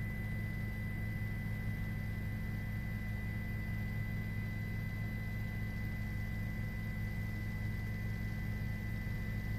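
Steady low drone of a helicopter cabin with a thin, steady high tone over it, unchanging throughout.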